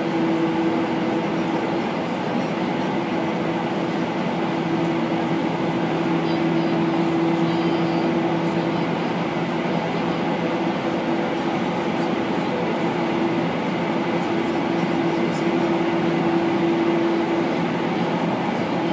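Running noise inside a JR 185-series electric train travelling along the line: a steady rumble of wheels on rail with a constant hum that fades out briefly a few times.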